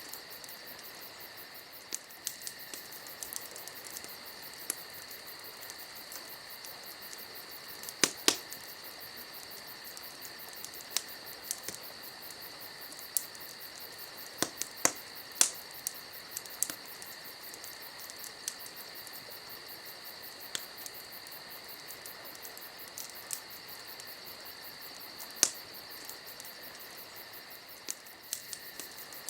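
Campfire crackling: sharp, irregular pops and snaps from the burning wood, the loudest a pair about eight seconds in. Under them runs a steady, high chirring of insects.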